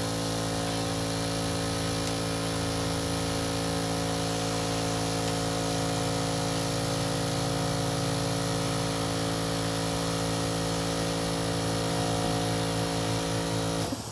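Electric power tool motor running steadily at one speed for about fourteen seconds, starting and stopping abruptly.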